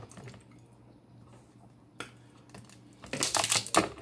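Close-up eating sounds over snow crab legs. A single click comes about two seconds in, then a loud burst of rapid crackling and lip smacking lasts nearly a second near the end.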